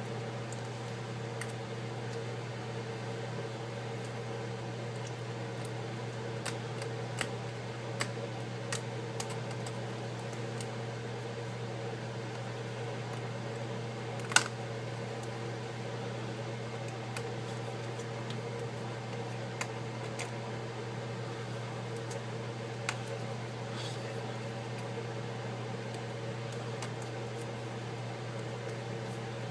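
Steady low machine hum, unchanged throughout, with a few scattered light clicks and one sharper click about halfway through.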